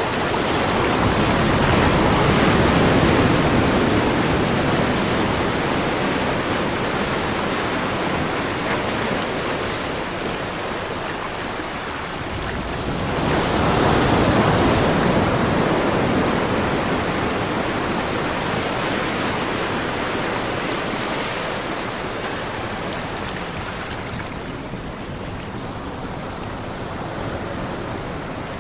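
Ocean waves breaking and washing on the shore, a steady rushing surf that swells twice, once near the start and again about halfway through, then eases off.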